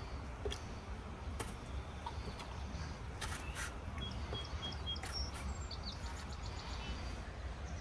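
Small birds chirping in short, high calls over a steady low rumble, with a few sharp clicks scattered through.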